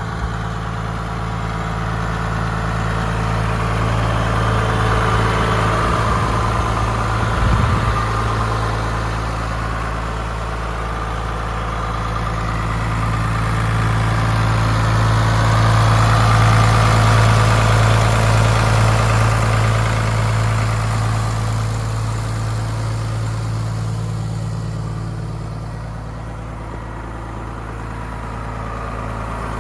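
New Holland TM140 tractor's six-cylinder diesel engine idling steadily with a deep, even hum. It swells louder twice and then fades somewhat near the end, without any change in engine speed.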